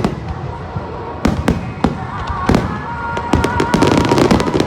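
Aerial fireworks bursting: a few sharp bangs in the first half, then dense crackling that builds from about three seconds in.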